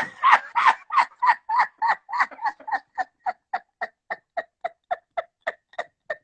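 A man laughing hard in a long, even run of short 'ha' bursts, about three to four a second, growing a little softer toward the end.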